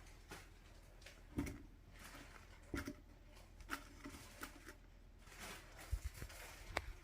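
Faint, irregular clicks and light knocks, about a dozen over several seconds, over a low background hum.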